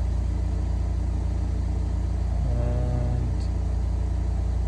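A car engine idling steadily, a constant low rumble with an even pulse.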